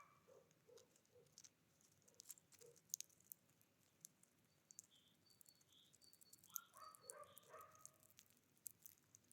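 Faint calls of small wild birds, a cluster of short calls about seven seconds in with thin high chirps just before, over scattered small clicks.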